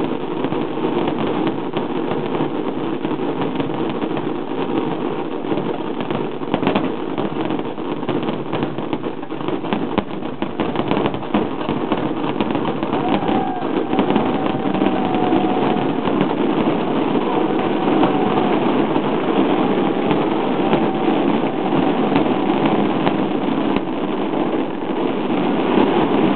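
A dense, continuous barrage of fireworks shells bursting and crackling, with crowd voices underneath. A few short whistling tones about halfway through.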